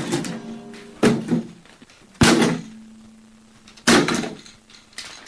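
A guitar struck or knocked hard three times, each blow leaving its strings ringing briefly; the second leaves one note hanging for about a second. The guitar is being broken.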